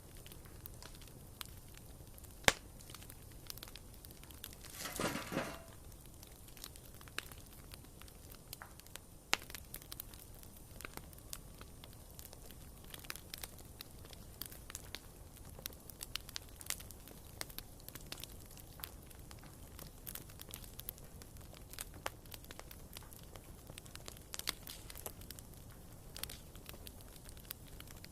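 Wood fire burning in a fireplace, crackling with scattered small pops. A single sharp pop comes about two seconds in, and a louder burst of noise lasting about a second comes around five seconds in.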